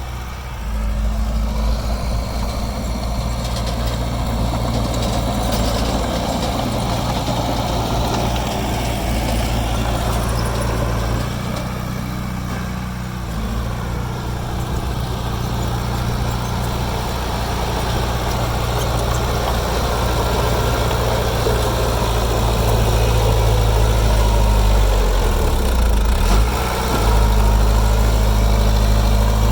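Heavy diesel engine of earthmoving machinery running steadily, easing off briefly about twelve seconds in and working harder and louder near the end.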